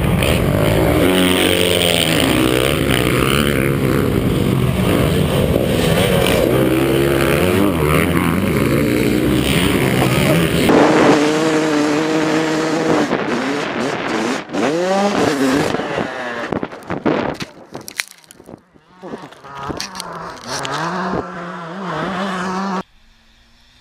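Several motocross dirt bikes running hard together, engines revving and shifting. Then a single two-stroke Yamaha YZ250 revving up and down in sweeps, with short gaps where the throttle is shut.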